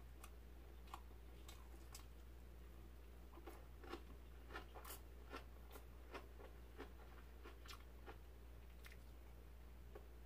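Faint chewing of pan-fried herb pancakes, with scattered light clicks of metal chopsticks and a spoon against the skillet and plates.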